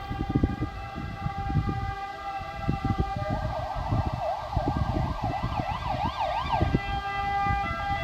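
An emergency-vehicle siren going up and down in pitch, quickening into a fast yelp from about three seconds in until shortly before the end. It sounds over a steady mix of held tones and a constant low buffeting rumble.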